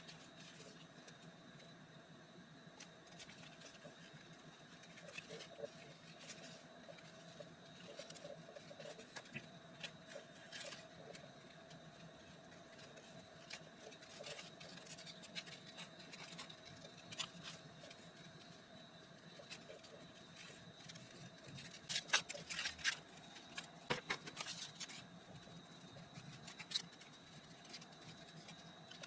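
Faint scattered taps, clicks and rustles of craft materials being handled, over a steady electrical hum, with a cluster of louder clicks near the end.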